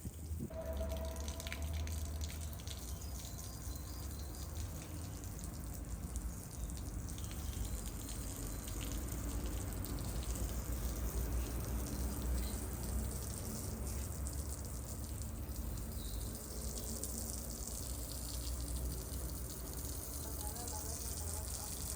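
Water running and dripping, over a steady low rumble.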